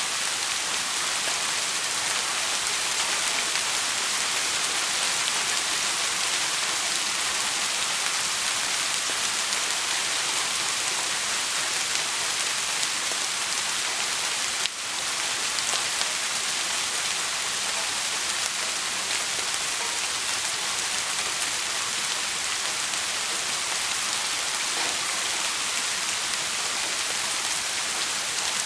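Steady rain falling, a dense even hiss, with a brief dip in level about halfway through.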